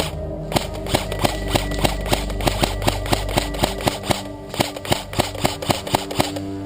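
Airsoft electric rifle (ICS SG551 MRS LB AEG) firing a rapid string of single shots, about four a second, stopping about six seconds in.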